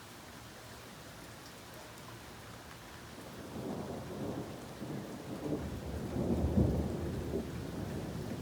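Steady rain falling, then a long roll of thunder that builds from about three and a half seconds in, peaks a little past six seconds and keeps rumbling to the end.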